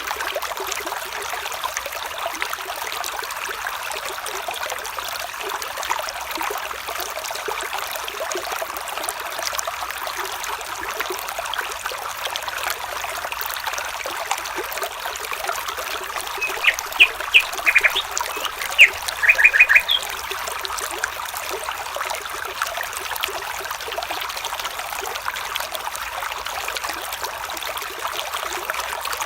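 Small stream trickling and babbling steadily. About seventeen seconds in a bird gives a short series of quick chirps.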